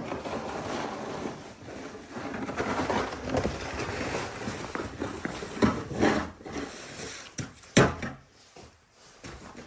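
Snow shovel scraping through packed snow, with a few sharp knocks of the blade, the loudest near the end.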